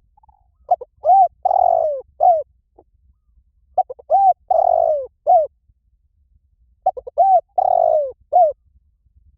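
Spotted dove cooing: three repeated phrases about three seconds apart, each a couple of short coos, a longer falling coo and a short final note.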